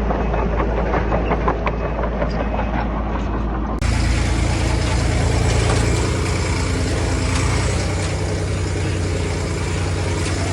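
Diesel engine of heavy earthmoving machinery running, with a clatter of many sharp clicks at first. A bit under four seconds in the sound changes abruptly to a steadier engine hum.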